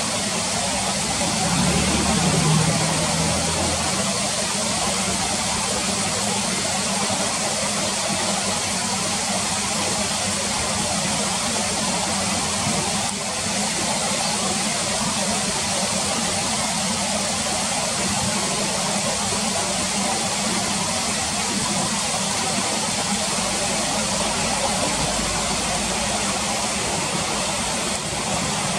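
Steady rushing of a river's current, with a brief low rumble about two seconds in.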